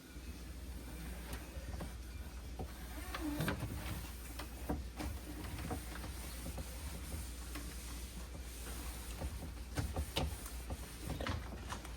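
Household items and containers being handled during fridge cleaning: scattered light knocks and clicks, a few louder, over a steady low hum.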